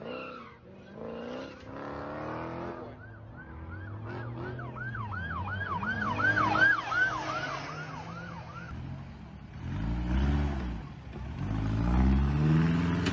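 Emergency vehicle siren in a fast yelp, sweeping up and down about three times a second, for about six seconds. After it, vehicle engine sounds rise and fall in pitch twice.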